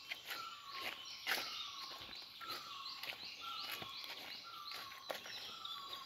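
Small cage birds calling over and over: a short falling whistle about once a second, with higher chirps in between, and a few sharp clicks.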